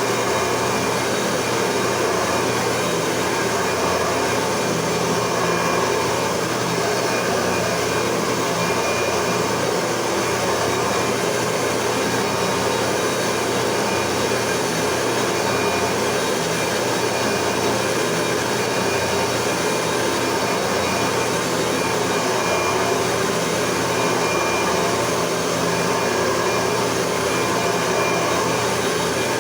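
Red Eureka Powerline soft-bag upright vacuum cleaner with a 9-amp motor, running steadily: an even rush of air with a faint steady whine.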